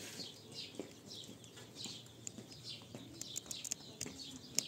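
Birds chirping in quick short falling notes, with a few sharp clicks about three and a half seconds in and a louder click near the end.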